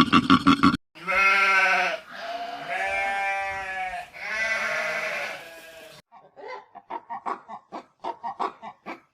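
Three long bleats, each about a second, from a farm animal. They follow a rhythmic pulsing sound that cuts off just under a second in, and are followed by a quick, uneven run of short sounds.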